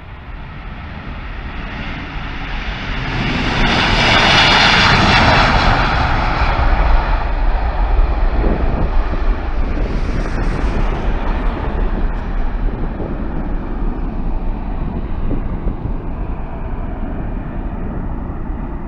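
Airliner passing by: its engine noise builds to a loud peak with a high whine about four to six seconds in, then slowly fades away.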